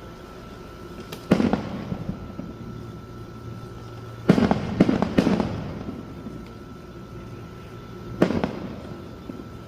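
Aerial fireworks bursting: a bang about a second in, three in quick succession around the middle, and another near the end, each followed by a rolling echo that fades.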